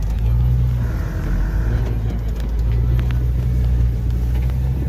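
Jeep Cherokee engine running steadily, a low drone, as the vehicle crawls off-road, with a few light knocks about two seconds in.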